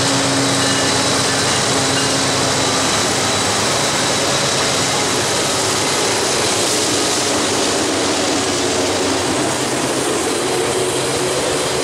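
BNSF diesel locomotives of a double-stack container train passing close by, their engines running with a steady low drone for the first few seconds. This gives way to the steady, loud rumble of the container cars' wheels rolling on the rails.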